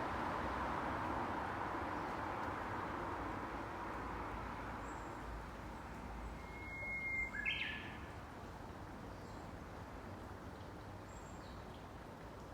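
Japanese bush warbler (uguisu) singing once, a long held whistle followed by a quick sharp flourish, over a steady background hum, with faint high chirps of other small birds.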